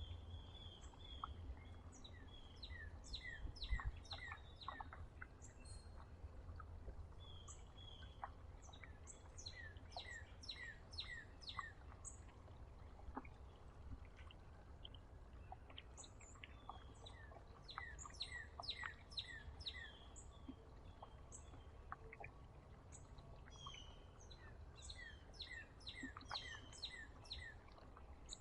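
Small songbirds chirping at a feeder: many short, high chirps, often in quick runs of several notes, coming from more than one bird throughout. A faint low rumble runs underneath.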